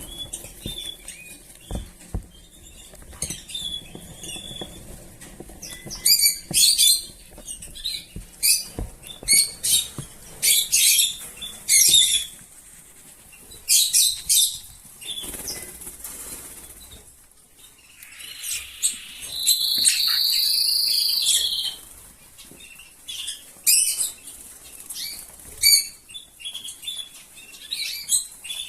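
Rosy-faced lovebirds chirping in quick, high-pitched bouts, with one longer drawn-out call about two-thirds of the way through and light taps and rustling in between.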